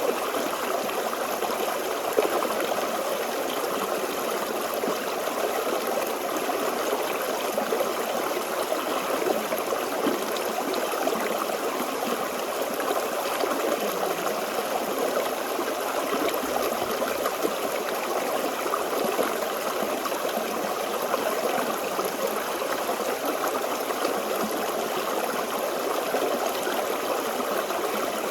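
Forest stream flowing steadily over stones, a continuous babble and trickle of water with many small splashes.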